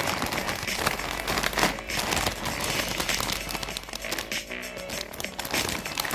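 Plastic snack wrapper crinkling with many quick crackles as it is handled and opened, over background music.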